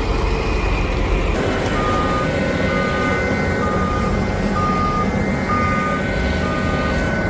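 A heavy vehicle's engine running under load, with a reversing alarm beeping steadily about once a second; the beeping starts after a cut about a second and a half in.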